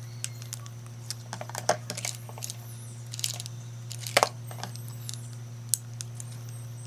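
Irregular small clicks, taps and short scrapes of hand work on parts, with a sharper double knock about four seconds in, over a steady low hum.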